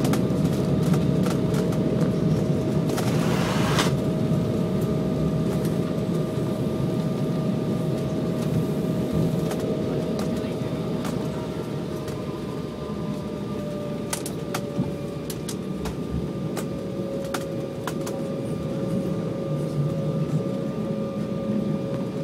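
Airliner cabin noise while rolling on the ground after landing: a steady jet-engine rumble with a constant whine that drops slightly in pitch about two-thirds of the way through. A short hiss comes a few seconds in, and light clicks and knocks are scattered throughout.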